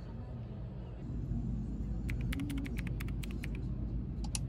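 Steady low rumble of an N700-series Shinkansen train running, heard from inside the cabin, growing louder about a second in. A quick run of about a dozen sharp clicks comes in the middle, and two more near the end.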